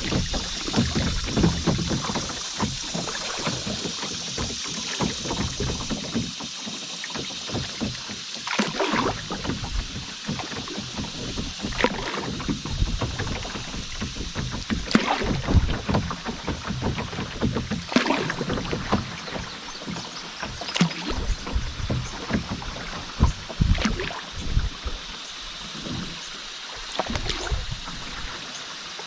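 Canoe paddle strokes in river water, about one every three seconds, over steady rippling and splashing water.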